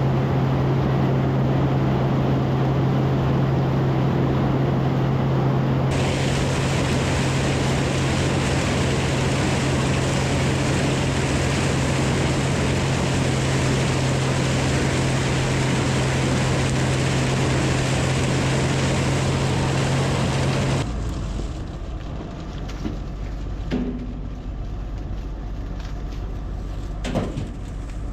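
Farm machinery engine running steadily at constant speed under load, with a strong low hum. About 21 seconds in, it cuts abruptly to a quieter low rumble with a few short knocks.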